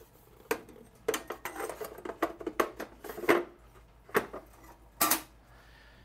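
Water tank being fitted back into a stainless steel espresso machine: a series of light knocks and clinks, the loudest about five seconds in.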